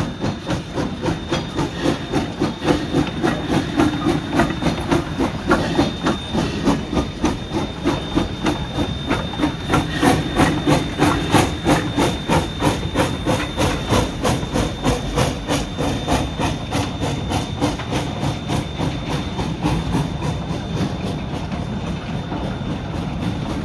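D&RGW #315, a narrow-gauge 2-8-0 steam locomotive, working past with a freight train: a steady beat of exhaust chuffs, about three a second, with steam hiss. The beats grow fainter near the end.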